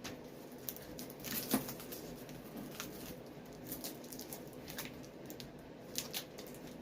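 Light handling noises: scattered small clicks, taps and rustles from working on a rubber boot and its tape, a little louder about a second and a half in and again near the end.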